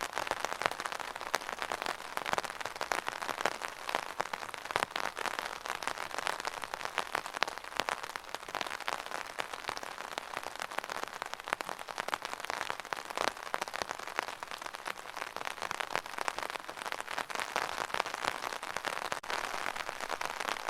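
Steady rain pattering on a surface, dense with many small drop impacts.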